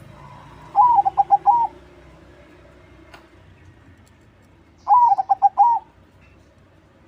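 A crossbred zebra dove (perkutut crossing) singing two song phrases about four seconds apart. Each phrase is an opening note followed by a quick run of short notes.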